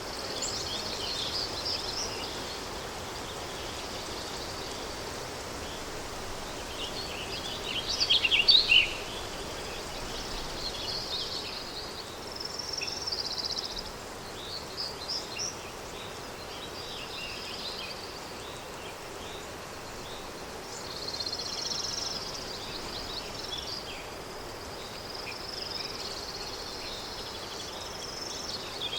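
Countryside daytime ambience: small birds chirping and calling on and off over a steady, even hiss of wind. A louder flurry of bird calls comes about eight seconds in.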